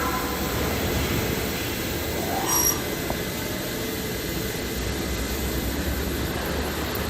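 Steady noise of running machinery, with a brief rising whine about two and a half seconds in.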